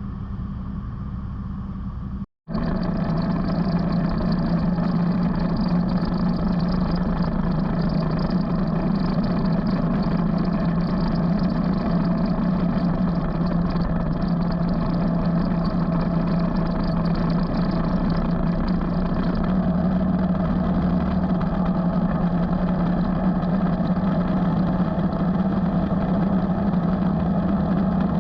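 Motorcycle engine running steadily on the road. The sound cuts out for a moment about two seconds in, then comes back louder and holds steady.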